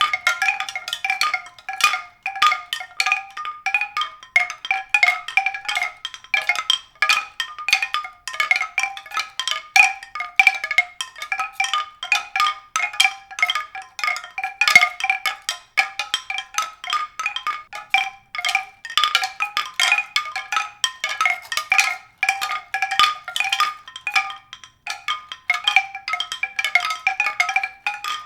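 Mallet-percussion music: a continuous run of quick, high struck notes, several a second, without pauses.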